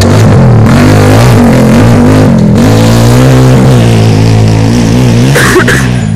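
Small off-road engines of ATVs and dirt bikes revving at a race start, their pitch rising and falling as riders work the throttle, very loud at the microphone, with a brief sharper burst about five and a half seconds in.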